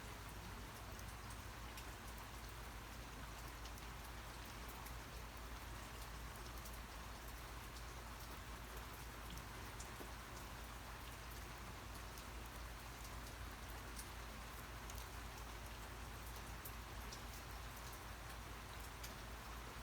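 Steady rain falling, with many individual drops ticking sharply against a surface over an even hiss, and a steady low rumble underneath.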